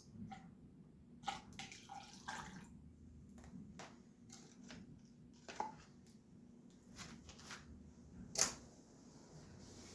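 Coolant dripping from an overfilled dirt-bike cooling system: a few irregular single drips and light taps, the loudest near the end.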